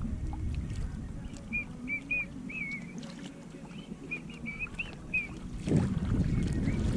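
Wind and water noise around a Hobie Adventure sailing kayak under way, swelling up again near the end. Over it runs a string of short high chirps, about three a second, in two spells.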